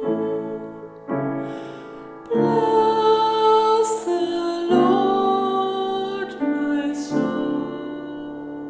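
A slow Taizé chant, sung with keyboard accompaniment. Long held notes move to a new chord every couple of seconds.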